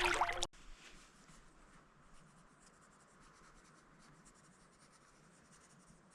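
Half a second of splashing water that cuts off suddenly, then faint, quick scratching of drawing strokes on paper as someone sketches.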